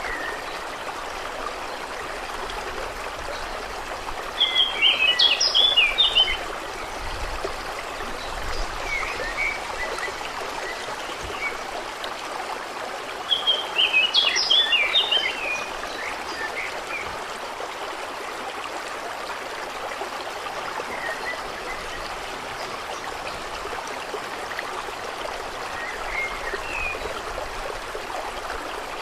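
Steady flowing, trickling water, with a bird singing a short burst of quick notes about four seconds in and again about thirteen seconds in, and a few faint chirps in between.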